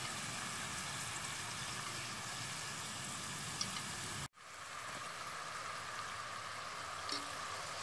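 Thin-sliced potatoes deep-frying in oil in a Dutch oven, a steady sizzling bubble. The sound drops out for an instant a little after four seconds and then carries on.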